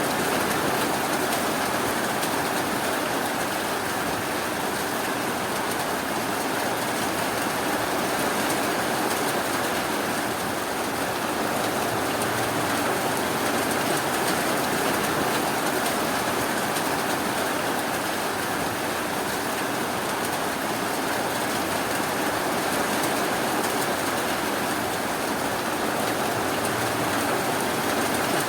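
Steady rainfall, an even, unbroken hiss with no thunder or separate drops standing out.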